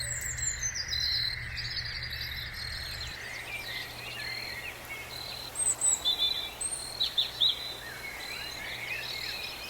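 Several songbirds chirping and trilling, with a falling trill at the start and bursts of quick chirps around the middle, over a steady insect drone. A low rumble underneath stops about three seconds in.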